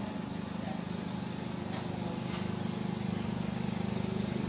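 Steady low motor hum that grows slightly louder, with two faint clicks about two seconds in, half a second apart.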